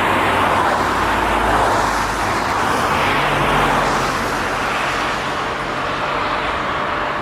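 Jet airliner's engines heard as a steady rushing noise, easing off slightly about halfway through.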